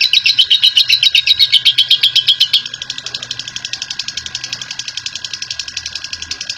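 Lovebird giving its long, rapid chattering trill (ngekek panjang), about nine high chirps a second. About two and a half seconds in it drops to a quieter, faster chatter that carries on.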